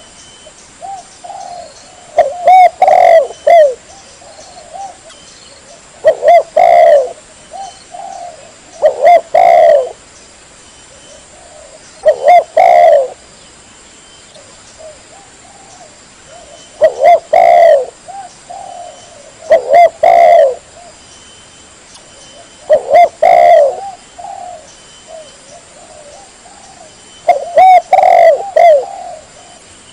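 Spotted dove (tekukur) cooing: loud phrases of several short, dipping coos, repeated every few seconds with short pauses between.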